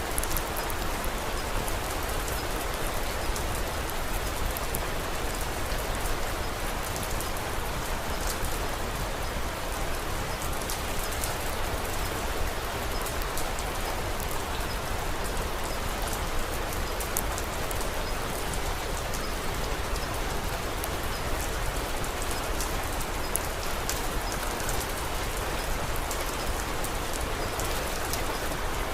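Steady rain falling, with many faint sharp ticks scattered throughout.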